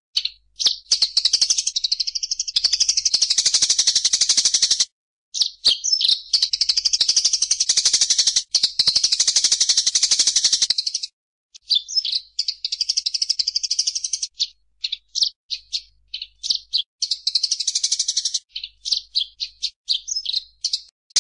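Songbird song: long, high, rapid rolling trills with brief breaks, changing about halfway through to a run of short, separate sharp chirps.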